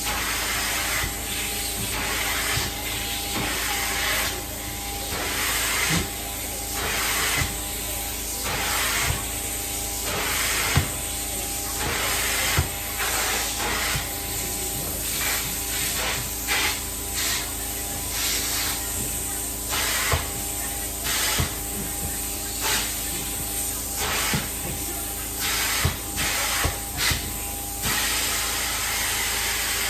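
Carpet-cleaning extraction wand spraying and sucking in repeated strokes, a burst of hiss about every second, over the steady hum of the extraction machine.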